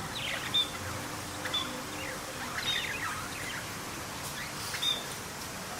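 Several birds chirping over a steady background hiss: short high chirps and quick falling notes every second or so.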